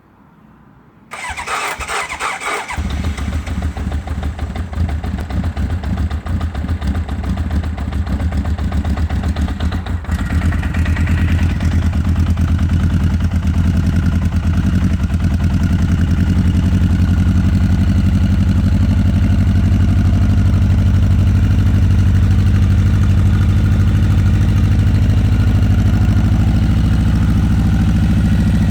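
Honda CB900 Custom's inline-four engine cold-starting. The electric starter cranks for about a second and a half before the engine catches, then it idles. About ten seconds in the idle steps up louder and settles into a steady run as the engine warms.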